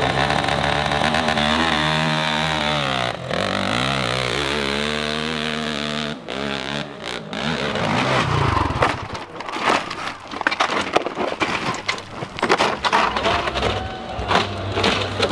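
Dirt bike engine revving hard, its pitch rising and falling with the throttle and cutting out briefly twice. After about nine seconds it turns into choppy, stuttering throttle blips.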